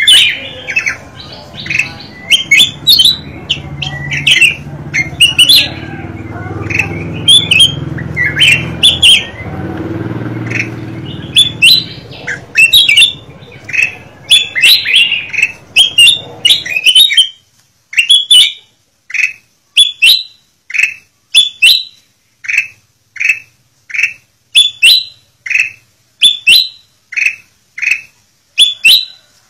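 Kutilang emas bulbul calling with short, sharp chirps. The chirps come thick and fast over a low background rumble that stops about two-thirds of the way through, then settle into single chirps about one a second.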